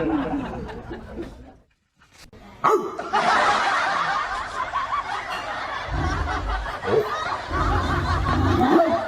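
People laughing, cut off by a short silence about two seconds in, then laughter starting again abruptly and running on.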